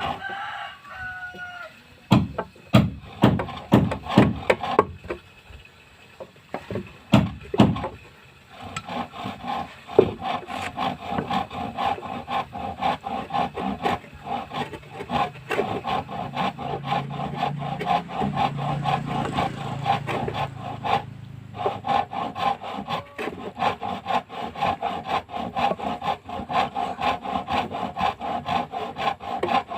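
Hand tool working wood with repeated scraping strokes: a few spaced strokes at first, then quick, even strokes from about nine seconds in.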